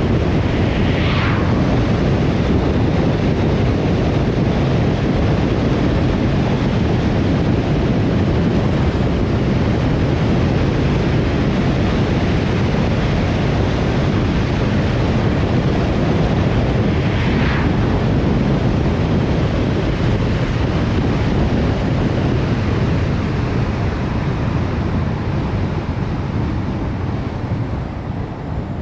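Steady road and wind noise of a car driving, a loud rushing hiss heaviest in the low end. Two brief swishes stand out, one about a second in and one about seventeen seconds in, and the noise eases off near the end.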